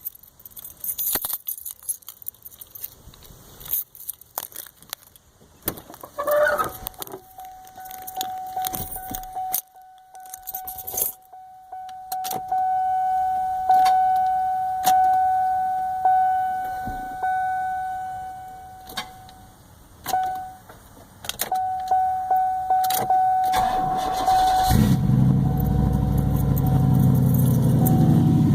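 Keys jangling and clicking, then a car's warning chime sounding over and over, one decaying tone about every second. Near the end the starter cranks briefly and a 1993 Cadillac DeVille's V8 fires and runs loud and deep, with a big hole in the muffler letting it sound nearly straight-piped.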